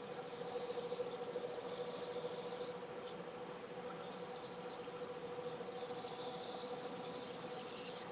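Wood lathe running with a steady hum while a cloth is held against the spinning Iroko platter, burnishing in the oil finish: a hissing rub that fades about three seconds in and comes back about two seconds later.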